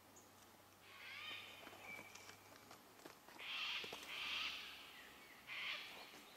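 Birds calling in the bush: a short call with a clear pitch about a second in, then several harsh, raspy calls from about three seconds on.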